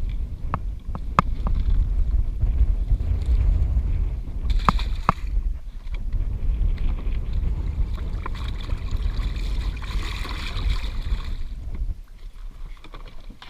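Strong wind buffeting the microphone, a steady low rumble that drops away about twelve seconds in. A few sharp knocks and clicks come in the first five seconds, and a hissing rush about ten seconds in.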